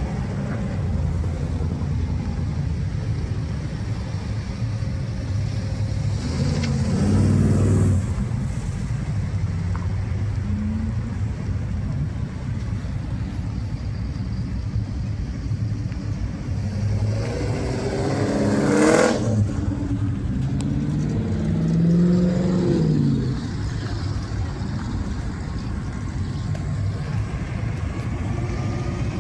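Car engines running, with cars driving past; one passes close about two-thirds of the way through, and another engine rises and falls in pitch soon after.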